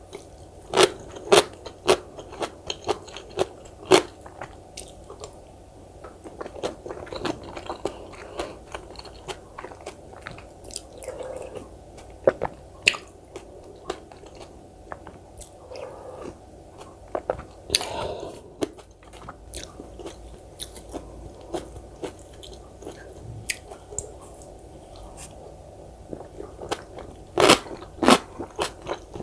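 Close-miked eating sounds: crisp crunching bites of kkakdugi (cubed radish kimchi), crowded in the first few seconds and again near the end, with softer, wetter chewing in between.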